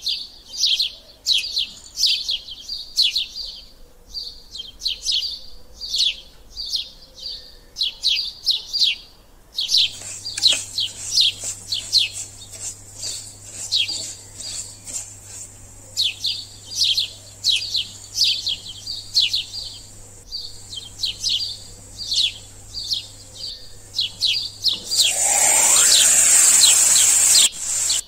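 Small birds chirping over and over, short falling chirps about two or three a second. A low steady hum joins about ten seconds in, and near the end a loud hissing rush lasts a couple of seconds.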